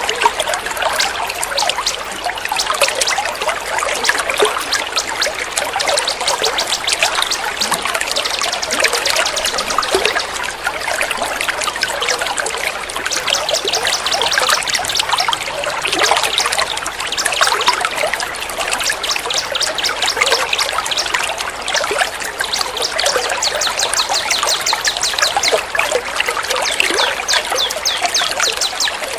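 Trickling water running steadily, overlaid with rapid, continuous bird trills and chatter: a songbird-training track that mixes high trilling calls of small birds with running water.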